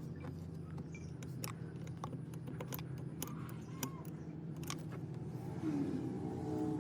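Scattered light clicks and ticks over a steady low hum.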